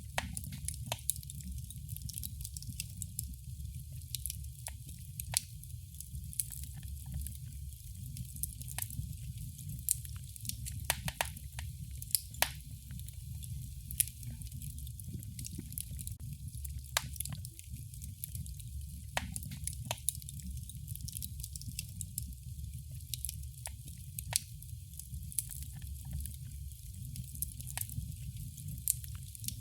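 Wood fire crackling: irregular sharp pops and snaps over a low steady rumble of the burning fire.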